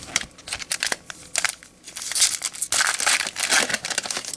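Crinkling and crackling of a foil baseball-card pack wrapper being handled, with a run of sharp crackles that gets denser and louder about two seconds in.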